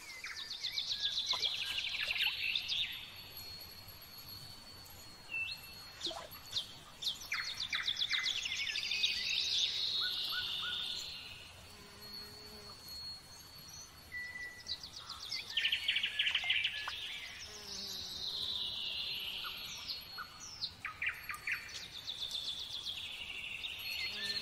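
A songbird sings the same phrase over and over, about every seven or eight seconds. Each phrase is a quick run of high notes ending in a falling sweep, over a thin, steady high tone.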